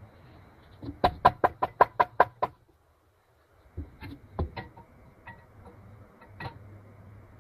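A quick run of about eight sharp knocks, roughly six a second, then after a short pause a few scattered single knocks.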